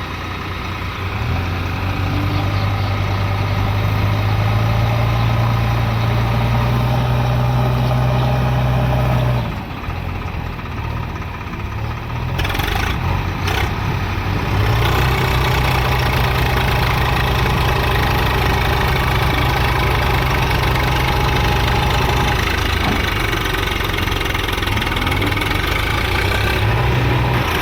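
Diesel engines of tractors and a backhoe loader working hard in deep mud: they rev up and hold under load, ease off about a third of the way in, then rev hard again for most of the rest.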